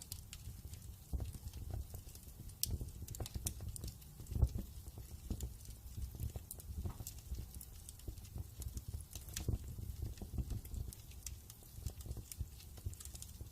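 Wood fire crackling in a fireplace: irregular sharp pops and snaps over a low steady rumble of the flames, with one louder pop about four seconds in.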